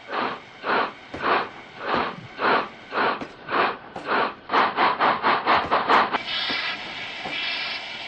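Steam locomotive chuffing as it pulls away, the puffs quickening from about two a second to about four a second. About six seconds in, the chuffing gives way to a steady hiss of steam.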